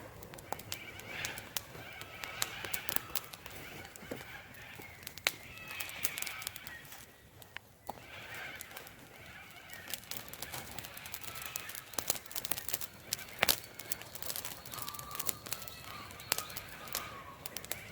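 Wood campfire crackling, with frequent sharp pops and snaps at irregular intervals.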